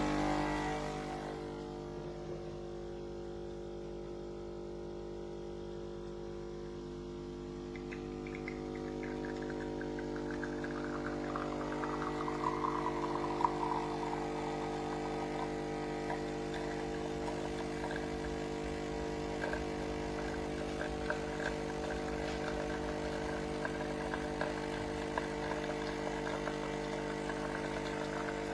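De'Longhi Dedica Style espresso machine's pump buzzing steadily as it runs. From about eight seconds in, a crackling, sputtering noise grows over the buzz.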